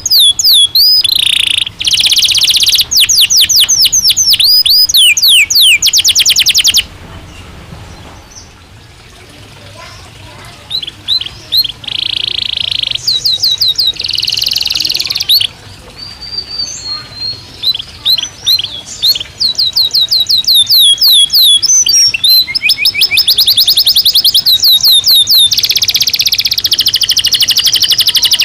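Domestic canary singing: long runs of fast, evenly repeated high notes and rolling trills mixed with sweeping whistles. The song breaks off about seven seconds in for a few seconds and then picks up again, running on in rapid trills.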